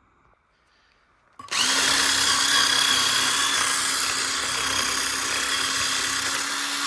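Electric drill fitted with a wire wheel brush starting up about a second and a half in, then running steadily at one speed with a harsh scratching hiss as the wire bristles scour rust and dirt off a steel car wheel.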